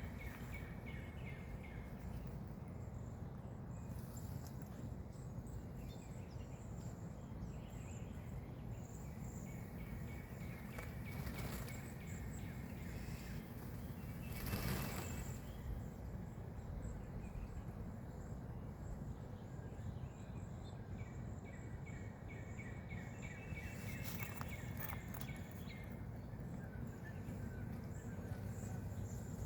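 A gathering of birds calling faintly in scattered clusters of short high chirps over a steady low background rumble, with a brief rushing noise about halfway through.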